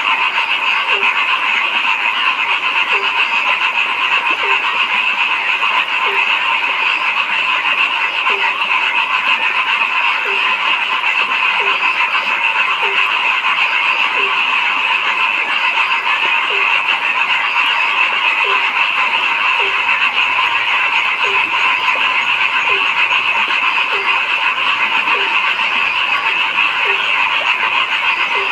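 A dense, steady chorus of frogs calling together without a break, with one lower-pitched frog croaking about once a second.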